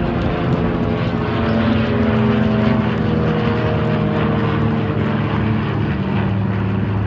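Propeller aircraft flying overhead, its engine note steady and loud, the pitch drifting slightly lower midway as it passes over.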